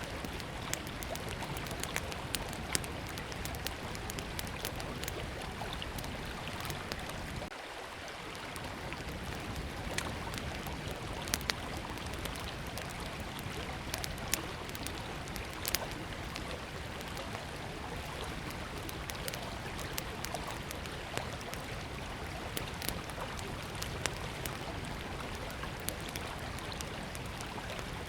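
A small river flowing steadily, with a wood campfire crackling over it in scattered sharp pops, a few louder than the rest.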